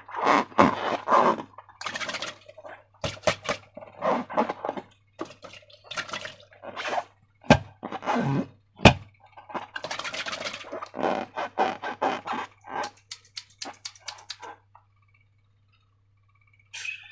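Slime squelching and crackling wetly in quick irregular squishes, with a few sharp clicks, over a faint steady low hum; it stops for about two seconds near the end.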